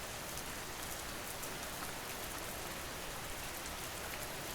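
Steady rain falling, an even hiss with faint fine drop patter.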